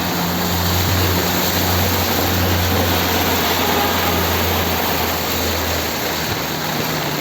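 Loud, steady rush of water from the heavy rain, with a low steady hum underneath that fades out about six seconds in.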